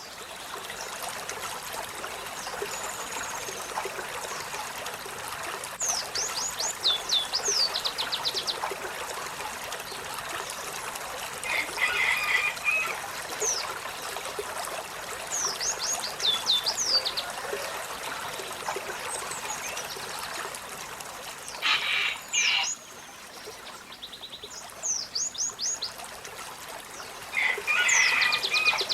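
Olive-backed sunbird singing: short runs of thin, high, quickly falling notes, repeated every few seconds, with chattery calls in between. Running water trickles steadily behind it.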